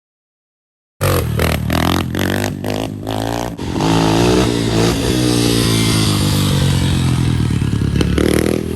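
After a second of silence, a loud vehicle engine cuts in, revved in several quick blips and then held at high revs.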